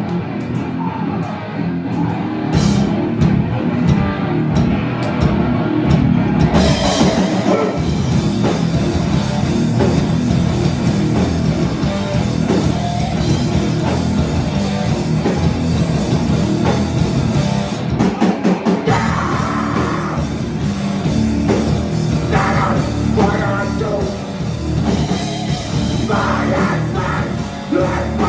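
Hardcore punk band playing live: distorted guitars, bass and drum kit with vocals over them. About eighteen seconds in the band stops for a moment before crashing back in.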